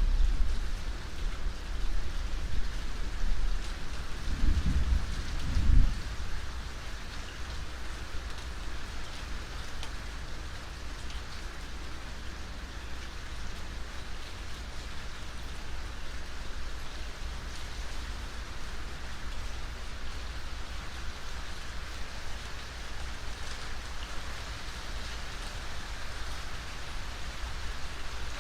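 Steady rain falling, with a low roll of thunder in the first few seconds that swells to its loudest about five seconds in and then fades, leaving the rain alone.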